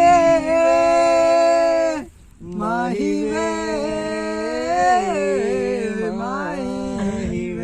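A solo voice singing unaccompanied in a Hindi-Punjabi devotional-romantic style. It holds a long note, breaks off briefly about two seconds in, then carries on with long wavering notes decorated with quick melismatic turns.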